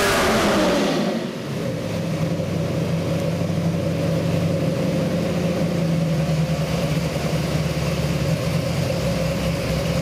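Ford 408 stroker small-block V8 (a stroked 351 Windsor) coming off a full-throttle power pull: the revs fall quickly within the first second or so, then the engine settles into steady low running.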